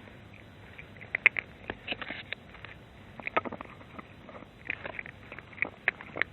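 A cat crunching dry food, heard as irregular crisp clicks and crackles, several clustered together now and then.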